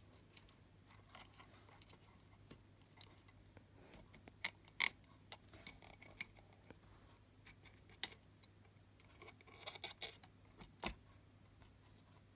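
Scattered light clicks and taps of small hard objects being handled, loudest a little under five seconds in and bunched together near the end, over a faint steady low hum.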